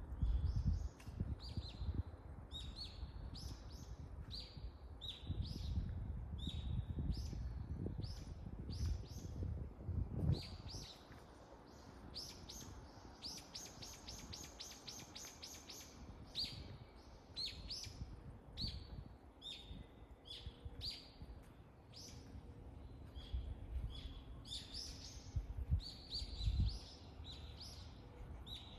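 Songbirds chirping in short repeated high notes, with a quick trill of about a dozen notes midway. A low rumbling noise comes and goes near the start, in the first half and again near the end.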